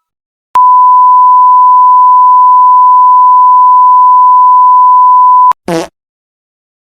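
Electronic beep sound effect: a single loud, steady pure tone near 1 kHz held for about five seconds, the classic censor bleep, cutting off abruptly. A very short tone falling quickly in pitch follows.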